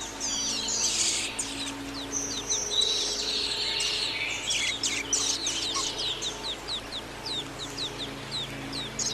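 A songbird singing: a fast, varied run of short high whistles and chirps, many of them quick sweeping notes, with a rapid string of repeated sweeps in the second half.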